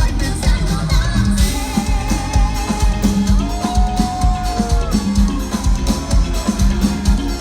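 Live cumbia band playing: a drum kit keeps a steady beat over a pulsing bass, with a held melody note sliding in the middle.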